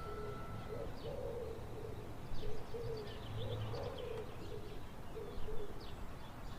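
Birdsong: a dove's low, repeated cooing in short phrases, with quick high chirps from small birds over it.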